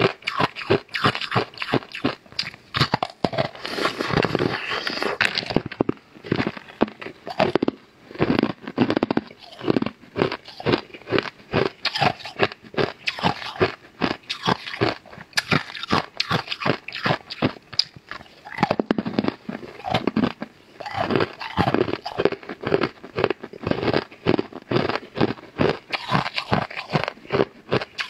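Crisp food bitten and chewed close to a lapel microphone: a long run of rapid, loud crunching crackles.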